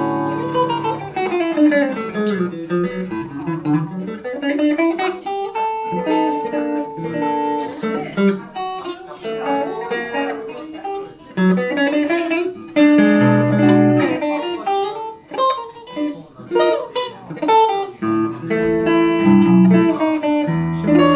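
Electric guitar, a Van Zandt Telecaster played through a Roland JC-120 amp, playing an instrumental blues passage: a falling run of notes over the first few seconds, then a rising one, then chords and single-note phrases.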